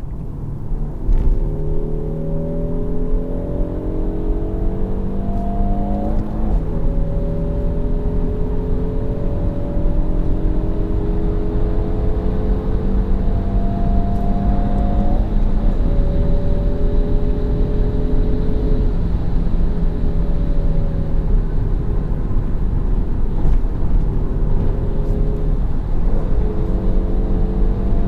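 Peugeot 308 GT's 1.6-litre turbocharged four-cylinder engine accelerating hard through the gears. Its note climbs steadily and drops back at each upshift, first about six seconds in and again about fifteen seconds in, then climbs more slowly with further shifts near the end.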